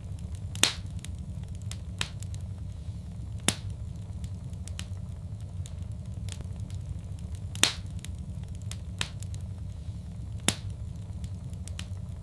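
Wood fire crackling in a fireplace: a steady low rumble of flames with scattered sharp pops. The two loudest pops come about half a second in and just past the middle.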